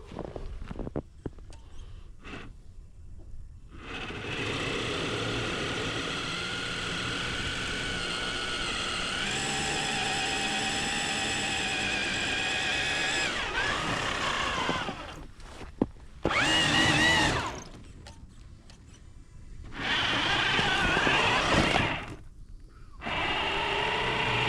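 RC truck's electric motor and gear drive whining under throttle: one long steady run of about ten seconds, then three shorter bursts, one of them rising sharply in pitch.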